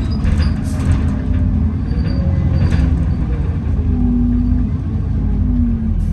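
Alexander Dennis Enviro400 double-decker bus heard from inside while under way: a steady low drivetrain rumble with a whine that falls in pitch, loudest towards the end, and a few brief rattles in the first three seconds.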